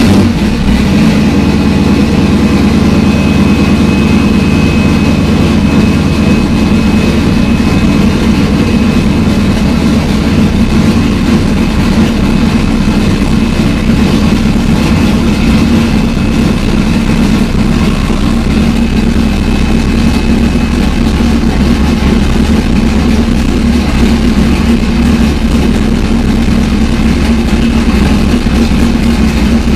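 Twin-turbocharged GM LS1 V8 of a Pontiac Trans Am running steadily at idle, an even engine note with no revs.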